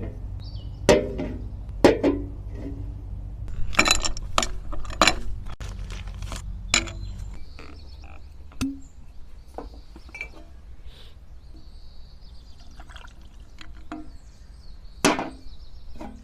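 Irregular sharp clinks and knocks of cookware and tableware being handled, with liquid being poured.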